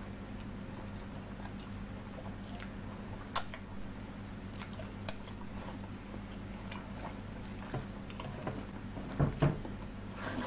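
Close-miked chewing and wet mouth sounds of someone eating curry and rice by hand, with scattered sharp clicks and a pair of louder low thumps about nine seconds in, over a steady low hum.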